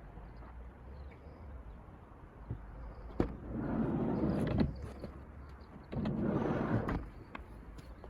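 Nissan NV350 Caravan's sliding side door rolling along its track with a latch clunk, twice: about three seconds in for a second and a half, and again about six seconds in for about a second, each run ending in a sharp click.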